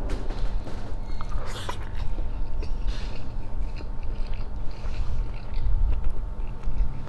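Close-miked chewing and mouth sounds of a man eating grilled chicken and rice with his fingers, picked up by a clip-on microphone on his shirt, over a faint steady hum.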